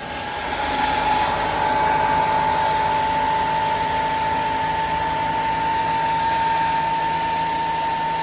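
Steady blowing, whirring noise from a fan or blower motor, with one constant high whine over the rushing air; it starts abruptly.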